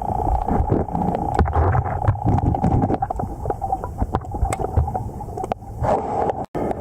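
Underwater river sound: a steady rush of current with a low rumble and many small clicks and knocks of stones and gravel. It cuts out briefly near the end.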